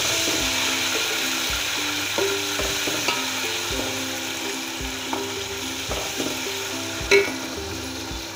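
Ginger-garlic paste and browned onions sizzling steadily in hot oil in an aluminium pot as a wooden spoon stirs them. The spoon knocks against the pot now and then, loudest about seven seconds in.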